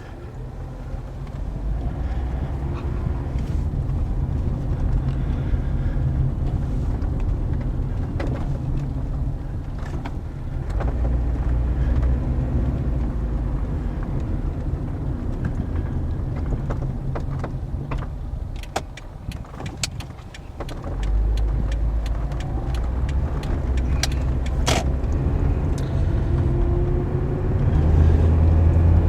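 A 2009 Toyota Corolla driving, its low road and engine rumble swelling and easing, with a run of sharp clunks and rattles about two-thirds of the way through. The owner takes this for front suspension noise from a bad strut bearing or spring.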